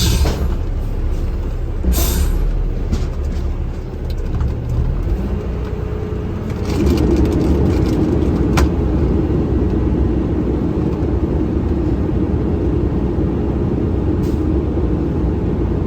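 Garbage truck engine rising in revs about five seconds in, then holding high and steady, the way it is run up to drive the hydraulics while a container is dumped. A short hiss of air comes about two seconds in, and a single sharp click partway through.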